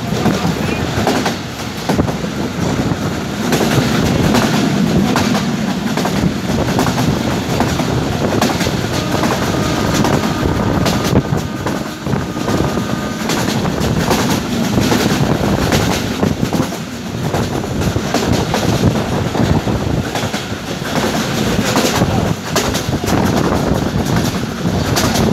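Passenger train coaches running along the track, heard through an open carriage window: a steady rumble with wind noise and wheels clattering over the rail joints. A faint steady whine rides over it for a few seconds midway.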